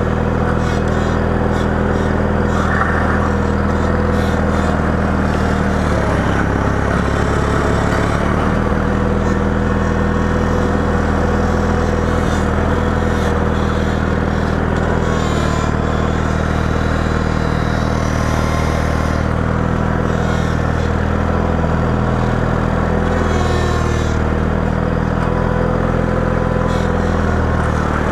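Engine of a snow-plowing vehicle running steadily under load, its pitch dropping and recovering about six seconds in and again near the end as the speed or load changes, with some clatter over it.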